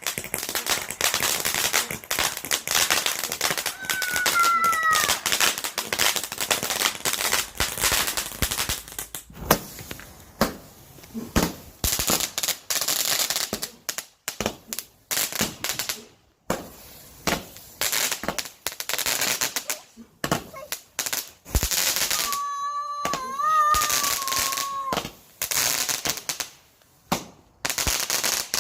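Fireworks going off: a dense run of rapid, sharp cracks and bangs, thinning into short gaps now and then.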